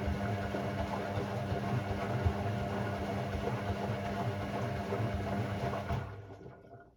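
Hoover Sportswear 1300 (AI130) washing machine running with a steady mechanical hum. It winds down and stops about six to seven seconds in.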